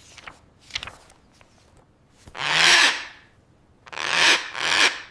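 A parrot giving a run of harsh, raspy squawks: a few faint ones first, then a long loud one about two and a half seconds in, followed by three shorter ones.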